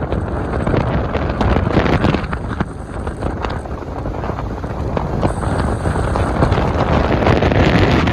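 Loud, steady wind buffeting the microphone on a moving motorcycle, with a dense low rumble beneath it.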